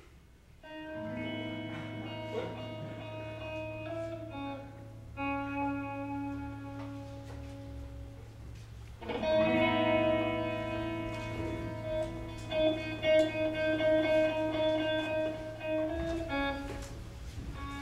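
Electric guitar music: slow, sustained chords that change every few seconds, with a steady low note held underneath.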